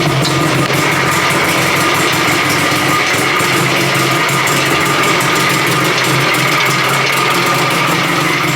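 Trabant 601's two-cylinder two-stroke engine idling steadily while its ignition timing is being set.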